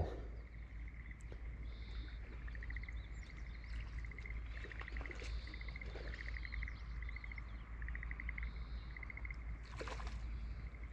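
Birds calling in the background: short rapid trills repeating about once a second, with scattered higher chirps, over a steady low rumble.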